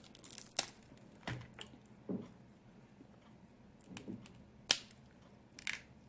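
Sharp, irregular cracks and clicks with softer eating sounds between them: snow crab leg shells being cracked open and the meat eaten.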